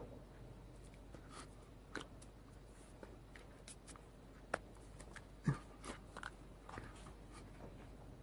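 Scattered faint clicks and small knocks over a low steady hum, about a dozen in all; the sharpest two come about halfway through and a second later.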